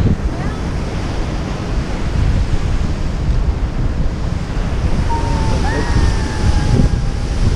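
Strong wind buffeting the microphone over the steady rush of Yosemite Falls' falling water.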